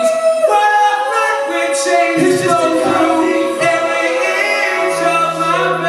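Live rock band performance with several voices singing together over the band; a low held note comes in near the end.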